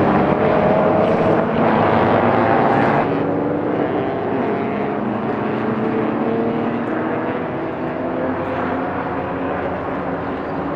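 Race car engine running hard under load, its pitch rising slowly as it pulls, with a change in the engine note about three seconds in.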